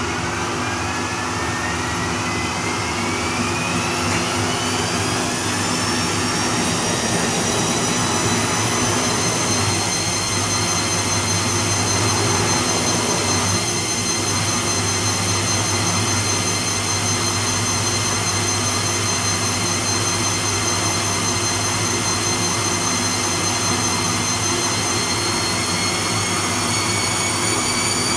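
Bosch Serie 2 VarioPerfect washing machine spinning: the drum motor's whine rises in pitch over the first few seconds as the drum speeds up, holds steady, then starts climbing again near the end.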